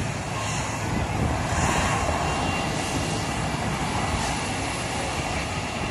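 Airliner engines running close by, a steady rumbling roar that swells slightly about a second or two in, with wind buffeting the microphone.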